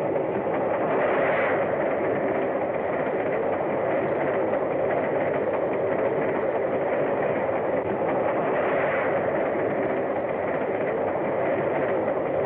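Steam express train running at speed, a steady rumble.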